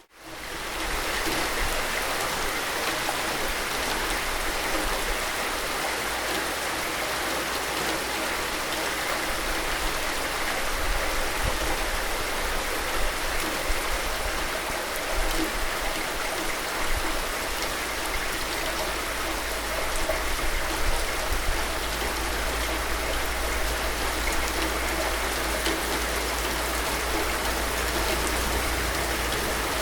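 Steady rain falling, an even hiss with a dense patter of drops and a low rumble underneath. It fades in over the first second.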